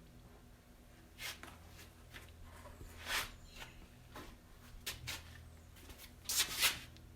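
Short-strand fiberglass filler being spread onto a metal truck door skin: irregular scraping and smearing strokes, the loudest near the end, over a steady low hum.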